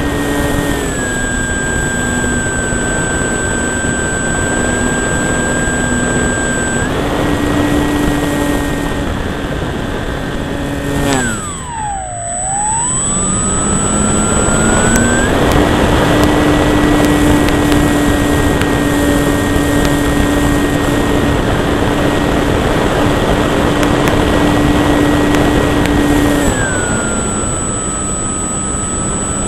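Electric motor and propeller of a Durafly Cessna 182 RC model plane, heard from right at the cowl: a steady whine over wind rush that changes with throttle. The pitch steps down briefly, comes back up, dips sharply to a low about twelve seconds in and climbs back to full throttle, then steps down again near the end.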